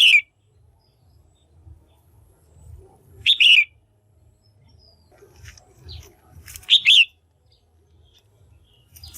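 Female red-whiskered bulbul calling: three loud, short chirping calls about three and a half seconds apart, the later two each a quick double note, with fainter chirps between. The calls of a female of the kind used to stir up a male or to pair birds.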